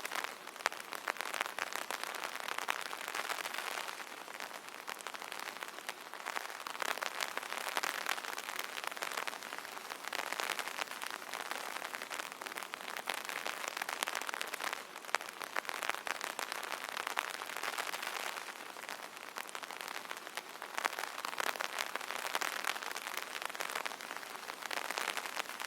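Steady rain falling on an umbrella: a dense hiss full of small, sharp drop taps that swells and eases every few seconds.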